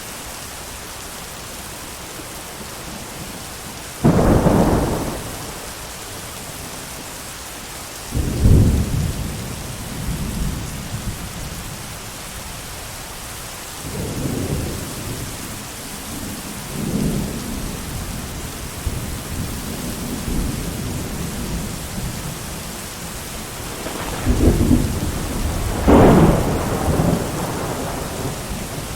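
Steady heavy rain with repeated thunder: a sudden loud crack about four seconds in, another a few seconds later, softer rolling rumbles through the middle, and two loud claps close together near the end.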